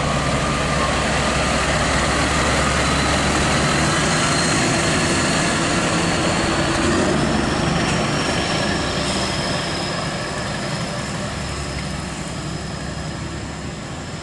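Heavy truck engine running steadily under load, with a thin high whine above it. The sound fades gradually over the last few seconds as the truck moves away.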